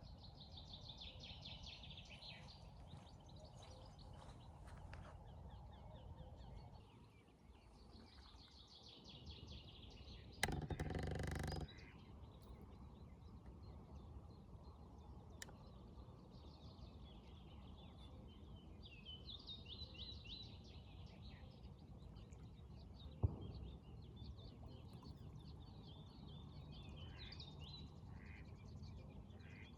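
Small birds singing in quick, rapid-trilled phrases at intervals over a faint, steady low hiss of outdoor ambience. Just after ten seconds in, a loud burst of noise lasts about a second, and a single sharp click comes about two-thirds of the way through.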